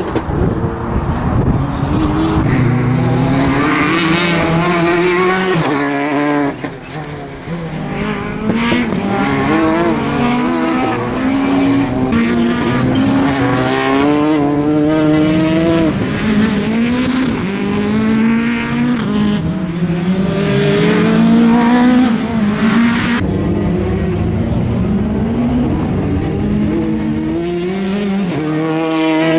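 Citroen DS3 R3 rally car's turbocharged four-cylinder engine working hard through a slalom, its note climbing and dropping again and again as the driver accelerates and lifts between gates.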